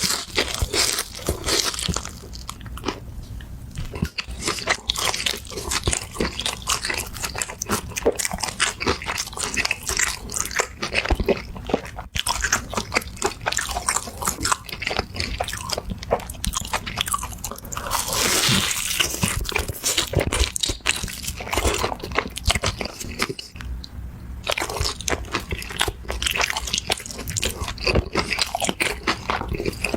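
Close-miked eating: repeated crunchy bites and chewing, with a busier, noisier stretch near the start and again about eighteen seconds in. The crunch fits bites of crispy fried chicken.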